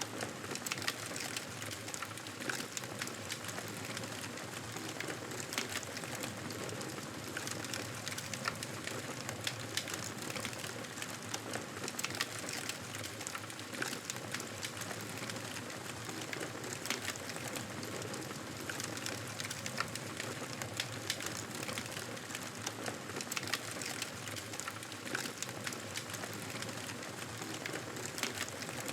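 Wood fire crackling in a fireplace: a steady hiss with many small sharp pops and snaps scattered throughout.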